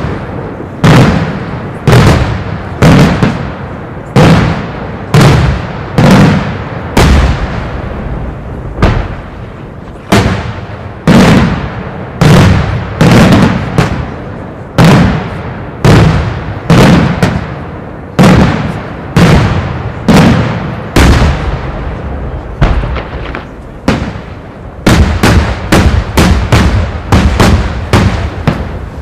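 Daylight fireworks: aerial shells bursting overhead in a steady series of loud bangs, about one to two a second, each trailing off in a short echo. About four seconds from the end the bangs come faster, several a second.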